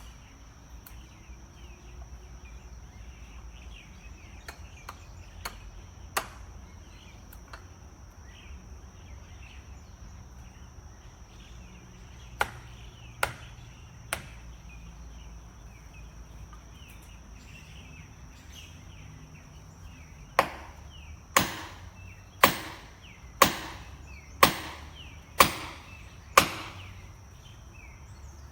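Sharp knocks, a few scattered, then a run of seven even strikes about a second apart near the end, over a steady high-pitched whine and a low background hum.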